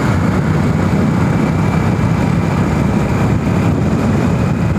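2002 Hero Honda Passion's single-cylinder engine running at a steady cruising speed, heard from the riding motorcycle with a dense, even rumble of road and wind noise.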